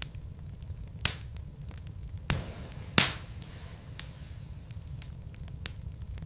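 Wood logs burning in a fireplace: a low steady rumble with small crackles throughout, and three sharp pops between about one and three seconds in, the last the loudest.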